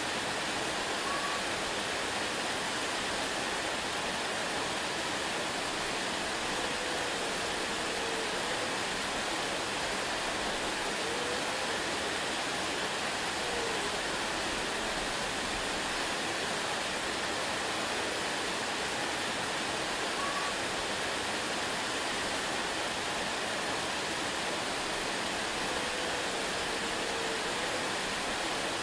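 Waterfall rushing in a steady, unbroken wash of noise, with a few faint brief chirps now and then.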